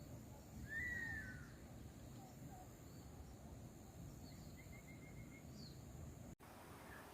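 Faint outdoor ambience with birds calling over a low, steady background rumble: a clear slurred call about a second in, then a quick run of short repeated notes around the middle.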